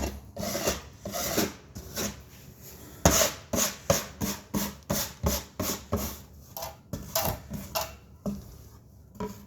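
Drywall taping work: a run of short scraping and rubbing strokes, about two a second, as paper tape is handled and worked on the wall.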